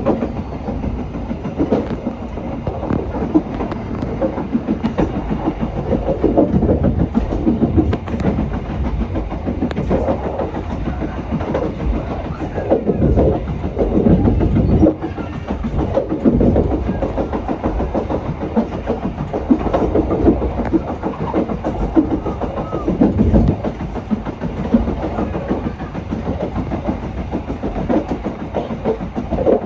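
Passenger train running along single track, with a steady rumble of wheels on rails and clattering that swells louder now and then.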